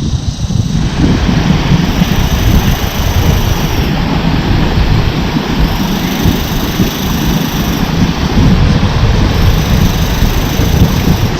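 Loud, steady rumbling noise, heaviest in the low end, that fills out a little under a second in and then holds.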